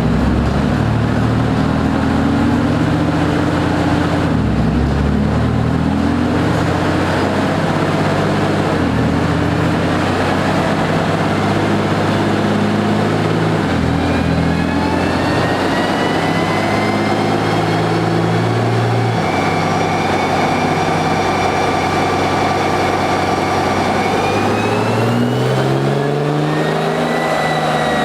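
6.7 L Cummins inline-six turbo-diesel making a full-throttle pull on a chassis dyno. The engine note drops at each shift, about four, nine and fourteen seconds in. From there a whine climbs steadily in pitch, peaks near the end and falls as the pull ends.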